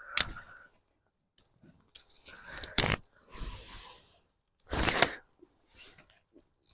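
Twigs and sticks being snapped and laid on a small campfire: separate bursts of crunching and rustling, with a few sharp snaps.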